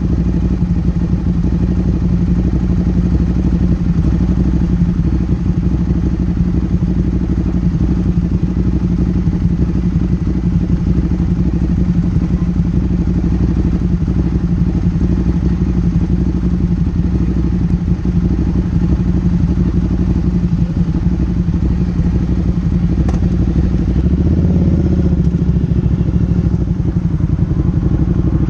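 Motorcycle engine running steadily under way, picked up close by a rear-mounted camera.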